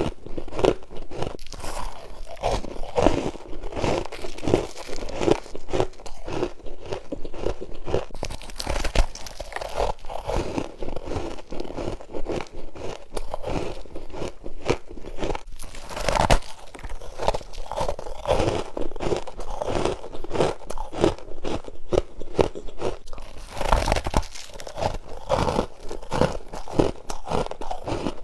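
Freezer frost being bitten and chewed close up: a continuous run of crisp crunches, with three louder bites spaced several seconds apart.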